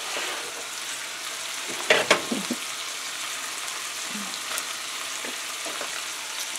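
Ground pork frying in a skillet, a steady sizzle, with a short cluster of knocks about two seconds in.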